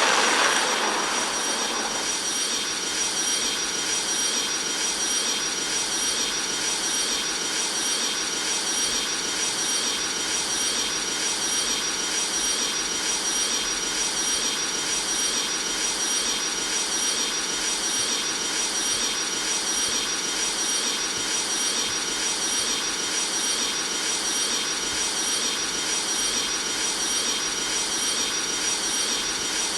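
Airbus A330 jet engines running steadily at climb power, heard from inside the passenger cabin as an even rush with a steady high whine. A brief louder swell at the very start dies away within about two seconds.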